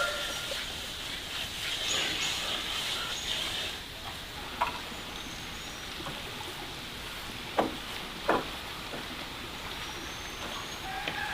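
Farmyard ambience with birds or poultry calling, broken by three sharp knocks about halfway through. A longer held animal call starts near the end.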